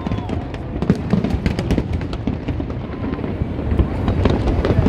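Large display fireworks going off continuously: a dense run of sharp cracks and bangs over a steady low rumble of bursting shells.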